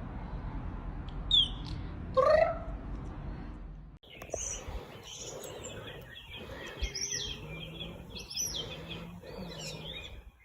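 Two short rising animal calls. About four seconds in, the sound cuts to a busy run of high, quick bird chirps and twitters.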